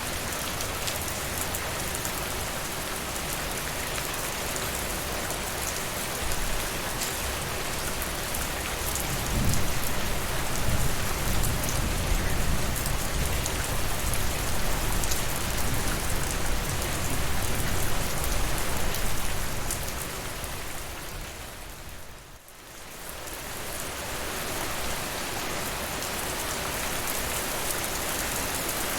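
Steady rain falling, an even dense hiss, with a low rumble swelling beneath it for about ten seconds in the middle. The sound dips away briefly a little past two-thirds through and comes back.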